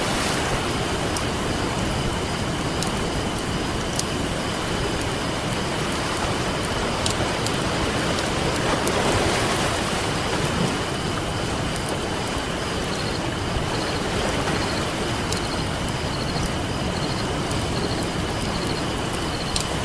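Ocean surf washing steadily under a crackling campfire, with sharp pops from the burning wood scattered throughout and a wave swelling up about nine seconds in. A thin, steady high-pitched tone runs underneath.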